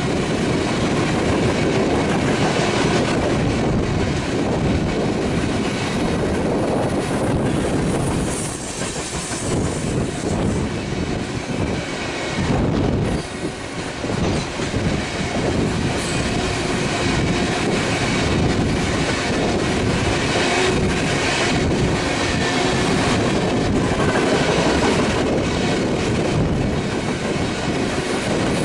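Freight train cars rolling past, wheels clacking steadily over rail joints, with faint wheel squeal.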